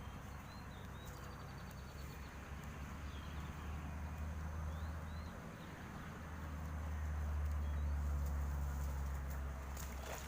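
A few faint bird chirps over a low steady rumble that swells a little past the middle.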